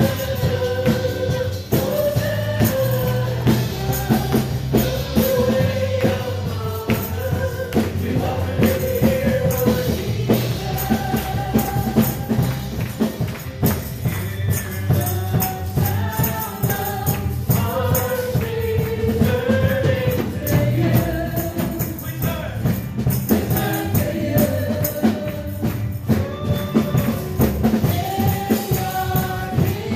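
Gospel worship song: singers carry a flowing melody over a band with tambourine, bass and a steady beat.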